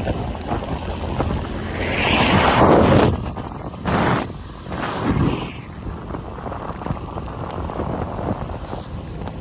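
Wind buffeting the microphone: a steady rough rumble with stronger gusts about two, four and five seconds in.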